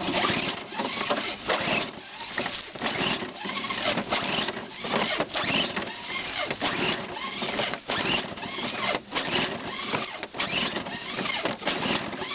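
Small two-stroke snowblower engine being pull-started again and again: the recoil starter rope rasps out and the engine turns over with each pull but does not catch.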